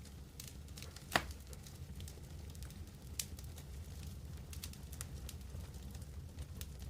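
Wood campfire crackling, with scattered pops and snaps over a low steady rumble; one sharp loud snap about a second in and a smaller one about three seconds in.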